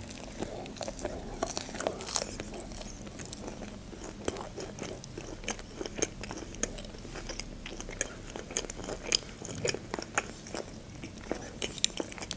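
Close-miked chewing of a deep-fried tempura sushi roll: many irregular crunches and wet mouth clicks.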